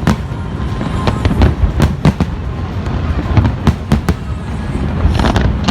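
Fireworks display bursting overhead: irregular sharp bangs, several close together at times, over a continuous low rumble of shell bursts.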